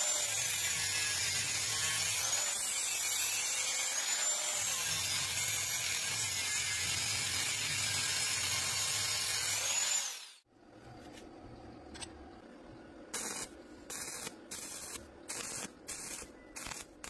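An abrasive power tool working metal, a loud steady hiss with a faintly wavering pitch, which cuts off abruptly about ten seconds in. Several short hissing spray bursts follow a few seconds later.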